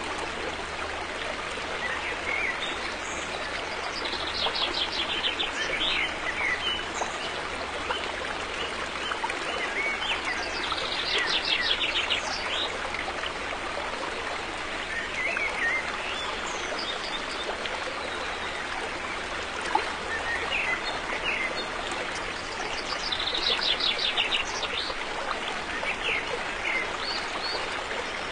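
A river flowing steadily, with birds singing over it: a fast trilling song comes three times, about four, eleven and twenty-three seconds in, with scattered chirps between.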